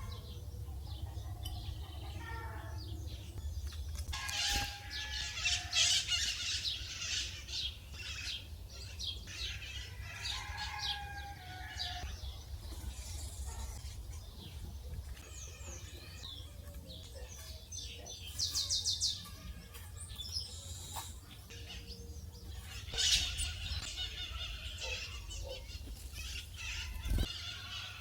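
Small wild birds chirping and calling, many short high chirps and trills coming and going, with occasional wing flaps. A steady low hum runs underneath.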